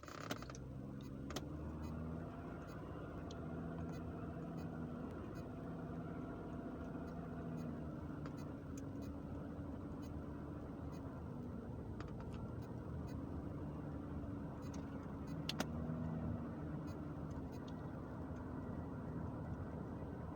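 An engine running steadily, its even hum fading in and out every few seconds, with a few faint clicks.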